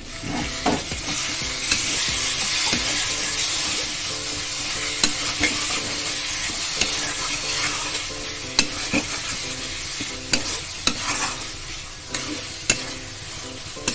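Onion-tomato masala with ground spices sizzling as it fries in a metal kadai, stirred and scraped with a flat metal spatula, with sharp clicks of the spatula against the pan every second or so.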